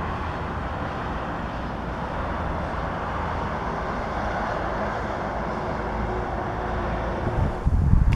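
Steady rumble of a train rolling past, with a low hum under it. Near the end come a few loud low gusts of wind on the microphone, and the rumble dies away.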